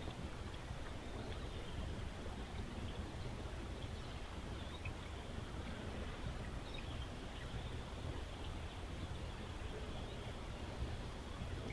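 Steady outdoor background hiss with a low rumble, and a few faint, short bird chirps now and then.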